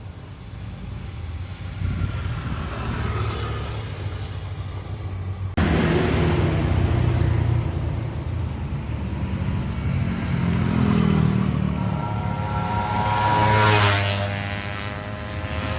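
Mazda B600's small engine running steadily, with an abrupt jump in level about a third of the way in. Shortly before the end the engine note sweeps in pitch and swells louder.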